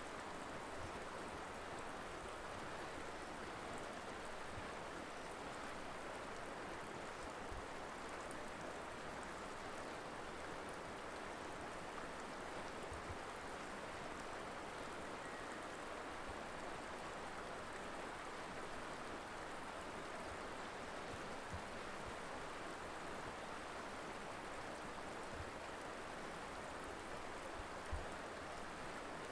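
River water flowing over rocks in a steady rushing wash, with a few soft low thumps, the largest near the end.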